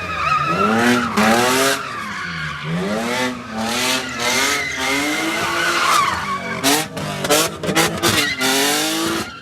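Car engine revving up and down over and over, the pitch rising and falling about once a second, while its tyres squeal and skid.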